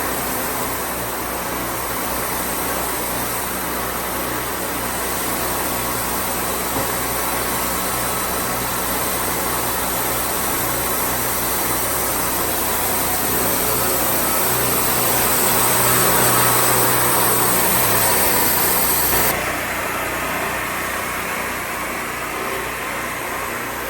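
Wood-Mizer band sawmill running steadily, its engine and blade going. A high hiss swells a little, then cuts off suddenly a few seconds before the end, while the engine runs on.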